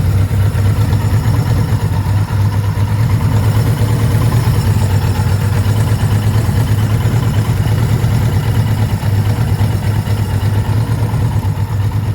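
1979 Kawasaki Z1000ST's air-cooled inline-four engine idling steadily at an even pitch.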